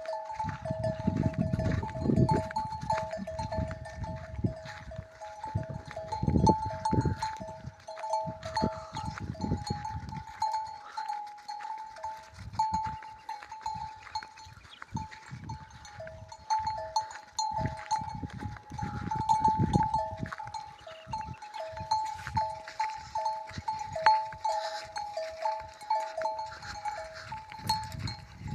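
A flock of sheep on the move, a bell on the flock clanking over and over in an uneven rhythm, with low rumbling thumps coming and going.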